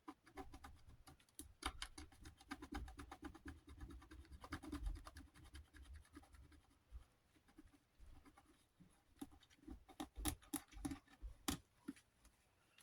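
Faint, rapid scratching and scraping on the fan's base as paint is worked off it, busy for most of the time and thinning to a few sharper scrapes near the end.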